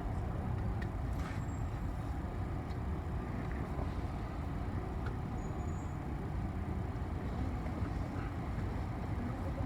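City bus moving, heard from inside the passenger cabin: a steady low rumble of engine and road noise, with a few faint clicks.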